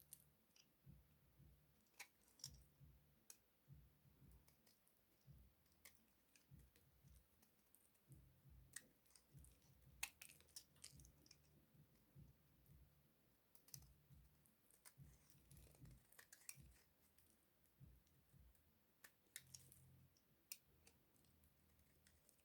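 Faint, irregular crisp clicks and crackles of a bar of hard soap being worked, typical of soap-cutting ASMR.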